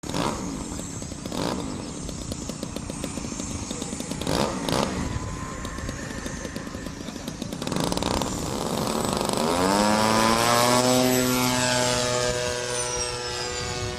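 Gusty rushes of wind noise, then about eight seconds in a radio-controlled model airplane's engine climbs in pitch to a steady, loud, high buzz. Near the end a thin high whine falls in pitch.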